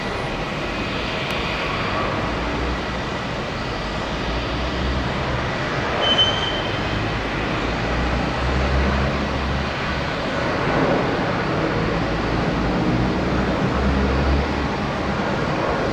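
Boeing 787 jet engines running at takeoff power: a steady roar with a deep rumble that swells and fades and builds slightly over the stretch.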